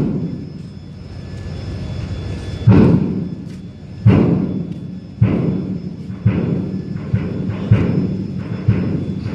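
Car-ferry ramp door being lowered, giving a series of loud, low thuds with ringing tails that come closer together toward the end. This is the odd noise the ramp makes as it opens.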